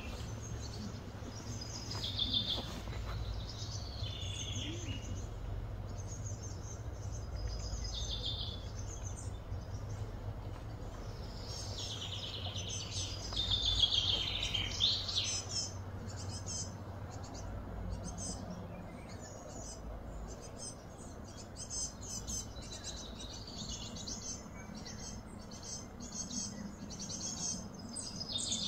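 Birds calling and chirping, in bursts of short chirps and falling phrases, busiest about halfway through, over a steady low hum.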